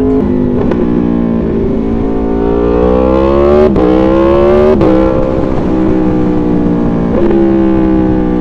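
Aprilia Tuono V4's 65-degree V4 engine pulling under acceleration: the revs climb, drop sharply at a gear change a little under four seconds in, climb briefly again and drop at a second shift about five seconds in, then settle and ease off gradually.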